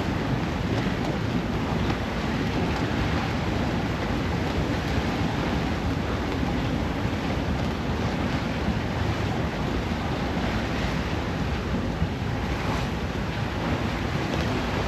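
Steady wind buffeting the microphone over the wash of waves against a sailboat under sail in gusty wind of about 20 knots.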